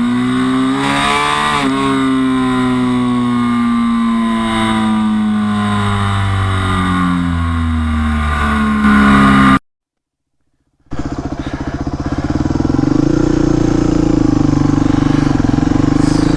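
Suzuki DR250S single-cylinder motorcycle engine through a Dominator R aftermarket exhaust. Its pitch falls steadily over several seconds as the engine slows, then it cuts to silence for about a second. After that the engine runs again at a steady speed that slowly rises.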